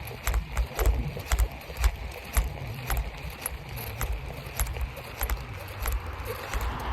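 Bicycle rolling on a nearly flat front tire, the rim thumping over the road and the bike rattling with irregular knocks and clicks: the inner tube is leaking air.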